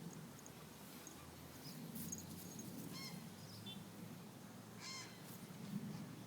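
A bird calling twice, two short calls about two seconds apart, over faint outdoor background noise.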